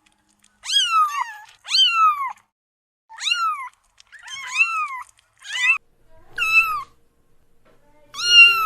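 A kitten meowing over and over, about seven short high-pitched meows, each rising and then falling away, with brief pauses between them.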